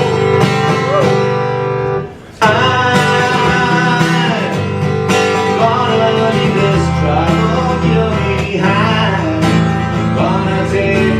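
Guitar intro of a song, chords played in a steady rhythm, with a brief break about two seconds in before it carries on.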